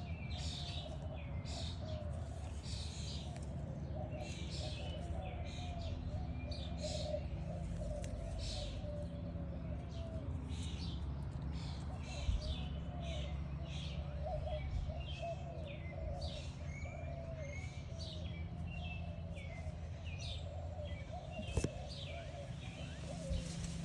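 Several birds chirping and calling over and over, with a steady low rumble underneath and a couple of light knocks.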